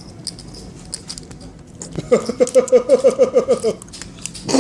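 Light clicking and tapping, then a person laughing in a quick run of about nine 'ha' notes lasting under two seconds, followed by a single knock near the end.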